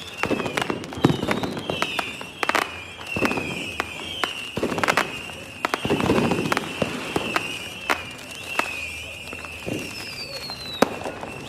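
Fireworks going off, with many sharp bangs and crackles at irregular intervals. A high, wavering whistle repeats in short falling glides throughout.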